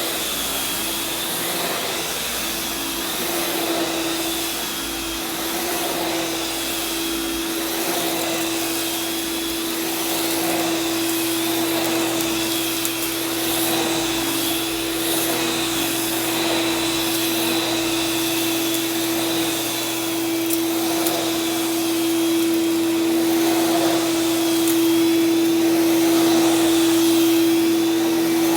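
Oreck vacuum cleaner running steadily over carpet, pre-vacuuming dry soil, with a constant motor hum and a higher whine that wavers every couple of seconds as it is pushed back and forth.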